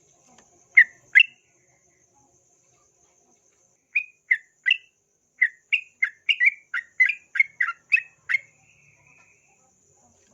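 Yellow-vented bulbul singing: two short notes, a pause of a few seconds, then a rapid run of about fourteen short bubbly notes ending in a softer buzzy note.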